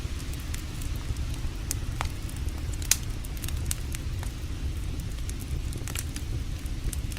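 Wood campfire crackling, with scattered sharp pops and snaps, the loudest about three seconds in, over a steady low rumble.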